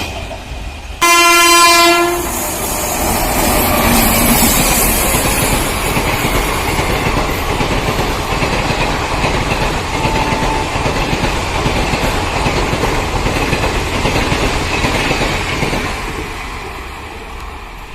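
A train locomotive's horn gives one blast of about a second. A train then passes close by, its wheels clattering over the rail joints, and the sound fades near the end.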